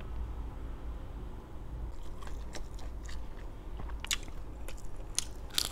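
Crisp fried food being bitten and chewed close to the microphone: a run of sharp crunches starting about two seconds in.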